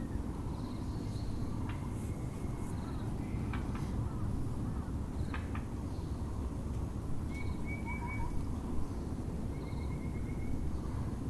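Several wild birds calling over a steady low background rumble: a short high note repeating every few seconds, a few sharp single calls, and two quick runs of chirps in the second half.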